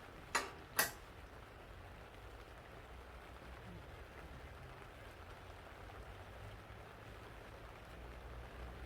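Two sharp knocks about half a second apart, then a faint low steady hum.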